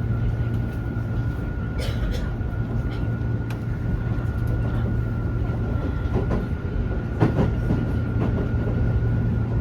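Running noise inside a Keio 9000 series trailer car, which has no traction motors: a steady low rumble of wheels on rail under a thin steady whine. A few sharper knocks come about two seconds in and again about seven seconds in.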